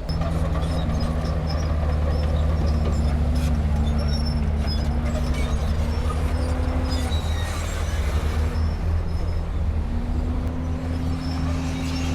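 Komatsu D31P crawler bulldozer's diesel engine running steadily while working, its pitch wavering and dipping briefly about eight seconds in, with short high squeaks scattered through from the steel tracks.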